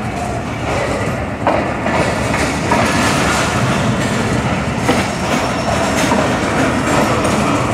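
Pakistan Railways passenger coaches rolling past along the platform: a steady rumble of wheels on rails, with clickety-clack knocks as the wheels cross rail joints.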